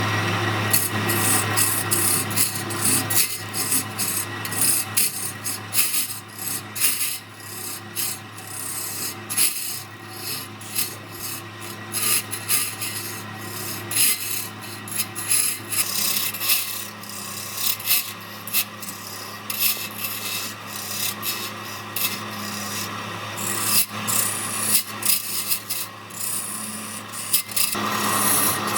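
Wood lathe running with a steady hum while a tool scrapes against the spinning wood-and-epoxy blank in uneven strokes.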